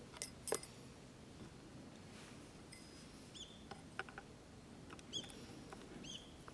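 A few sharp clicks, then short high chirps of a small bird, repeated three or four times.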